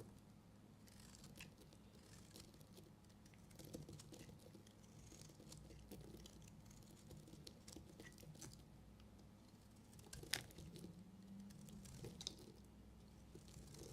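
Knife cutting through bars of soap: soft scraping and small crumbly crackles at irregular intervals, with one sharper click about ten seconds in.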